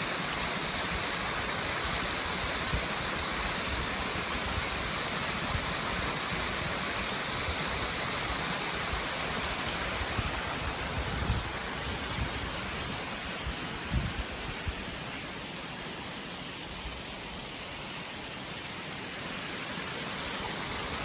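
A small creek spilling over a mini waterfall: a steady rush of water that softens for a few seconds late on. A few soft low thumps sound around the middle.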